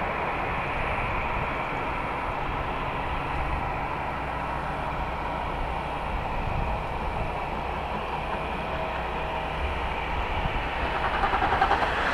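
Jet airliner engines running, a steady roar of noise that grows louder and busier near the end.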